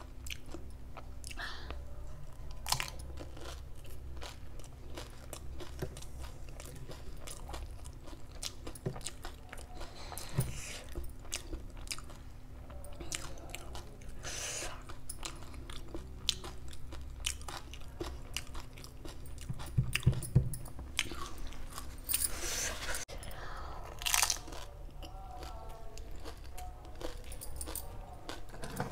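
Close-up mouth sounds of a person eating dahi puri: crisp fried puri shells filled with curd and chutney are bitten and chewed, with repeated crunching and wet chewing. The louder bites come about two-thirds of the way through.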